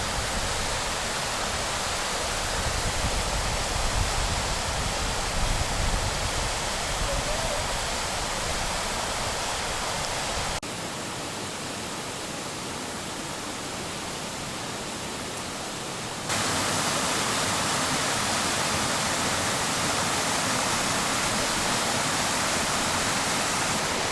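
Waterfall rushing steadily, an even noise of falling water. The level drops suddenly about ten seconds in and jumps back up about six seconds later.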